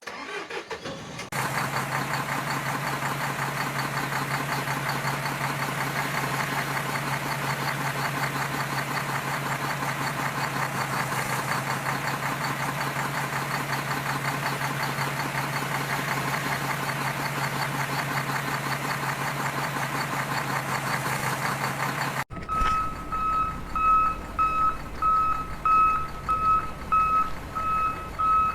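A steady, buzzing engine-like drone runs for about twenty seconds and stops abruptly. A reversing beeper then sounds about twice a second.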